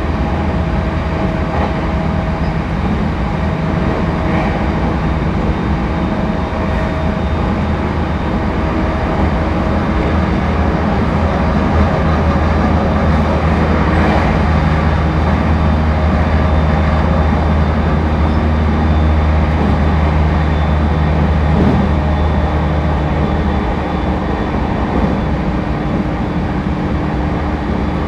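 Interior running sound of an E231-1000 series electric commuter train (a renewed car) travelling between stations. A steady low rumble of wheels on rail, with faint steady tones above it.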